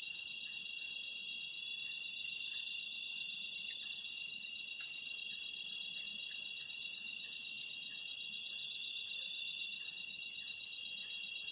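Steady chorus of insects, many shrill high tones layered together without a break.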